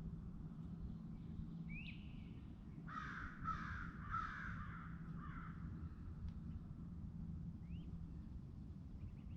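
A crow cawing three times in quick succession about three seconds in, harsh calls each lasting under half a second. Small birds give a few brief chirps around it, over a steady low hum.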